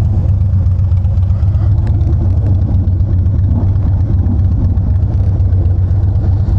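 Motorcycle engine idling steadily at close range.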